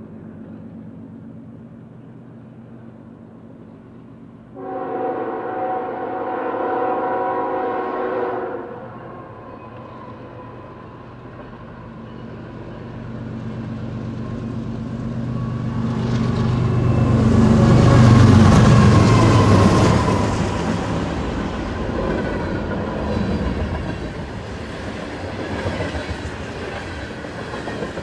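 Norfolk Southern diesel freight train approaching: the lead locomotive sounds one long horn blast of about four seconds, about five seconds in. Its engine rumble then builds to a peak as it passes, about eighteen seconds in, and is followed by the steady rattle and clatter of hopper and tank cars rolling by.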